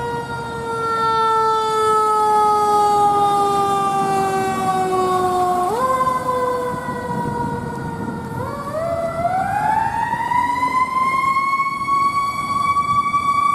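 Fire engine's mechanical siren coasting slowly down in pitch, twice given a quick burst that lifts it again. About eight seconds in it is wound up to a steady high wail and held there.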